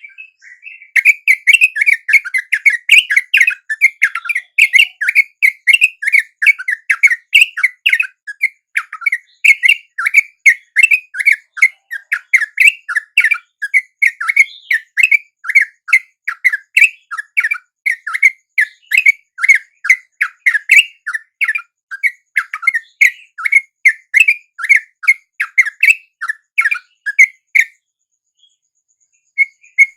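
Sooty-headed bulbul (trucuk) calls: loud, rapid chattering chirps, several a second, that break off shortly before the end. It is the kind of trucuk call used as a lure to draw in wild trucuk.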